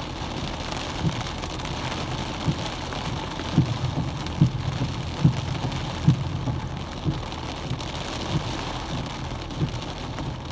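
Heavy rain on a car's windshield and roof, heard from inside the cabin, with a dull thud about once a second from the windshield wipers. The wipers are on a rain sensor, sweeping fast in the downpour.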